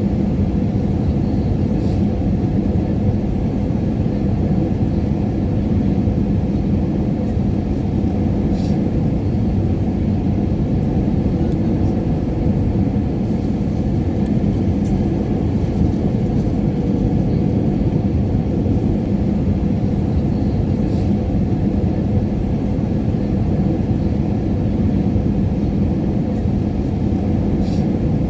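Airliner cabin noise: the steady low rumble of jet engines and airflow heard from inside the cabin in cruise, with a faint hum in it and a few faint clicks now and then.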